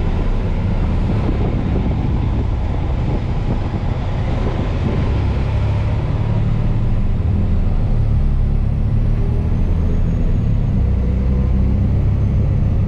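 Military truck's diesel engine running under way, a steady low rumble that grows a little louder about halfway through.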